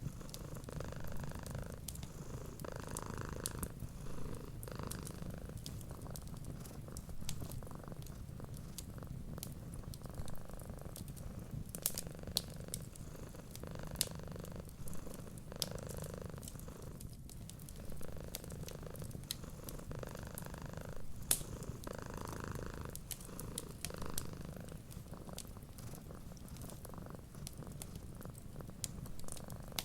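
A cat purring steadily, a low rumble that swells and eases with each breath every couple of seconds. Through it a wood fire crackles, with scattered small sharp pops.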